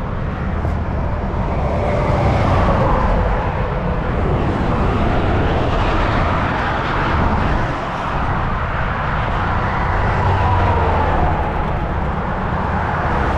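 Steady rumble of highway traffic passing close by, with a couple of vehicles whose pitch drops as they go past.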